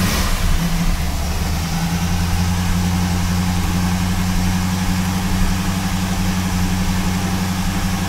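A 1976 Corvette's new V8 crate engine idling steadily, heard from inside the cabin.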